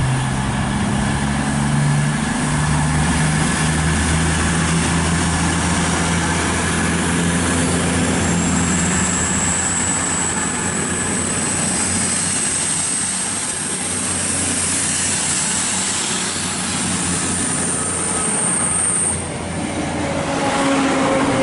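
Virgin Voyager diesel multiple unit passing along the platform, its underfloor diesel engines running, with a thin high-pitched squeal that rises slowly from about eight seconds in and cuts off suddenly a couple of seconds before the end. Near the end the engine of a second diesel unit comes in as it draws alongside.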